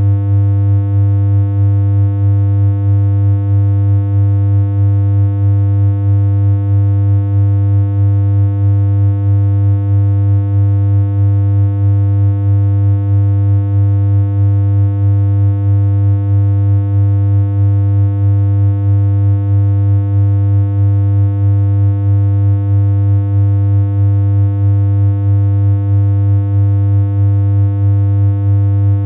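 A steady synthesized hum: one low tone held without change, with fainter higher overtones stacked above it.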